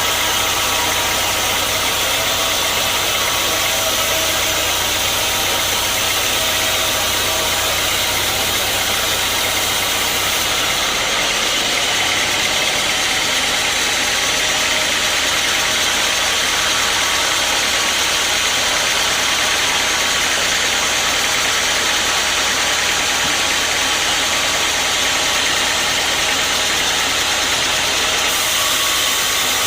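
Sawmill machinery running with a steady, loud engine-driven noise; its low hum changes about eleven seconds in.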